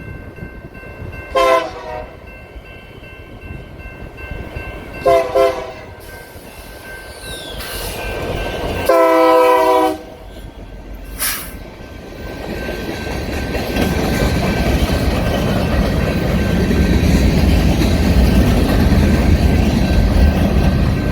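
A locomotive air horn sounds: a short blast, a quick double, then one long loud blast, each a chord of several notes. After it comes a rumble that swells into the steady running noise of a train rolling on the rails.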